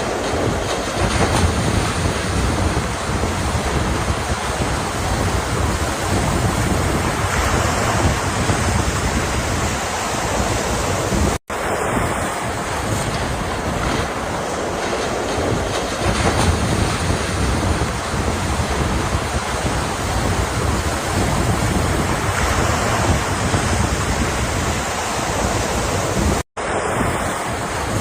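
Ocean surf, a continuous wash of breaking waves. It cuts out for an instant twice, about eleven and twenty-six seconds in.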